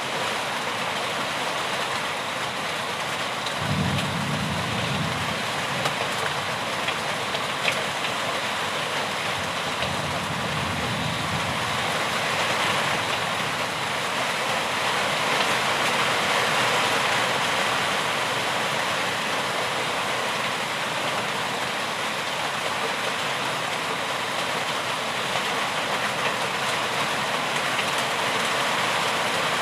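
Steady rain falling, an even hiss with a few faint drop ticks. Two brief low rumbles come through, about 4 and 10 seconds in.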